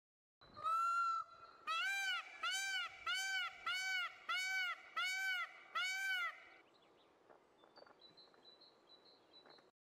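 An animal's clear, pitched calls: one longer call, then seven short calls in quick succession, each rising and falling in pitch. Faint chirps follow near the end.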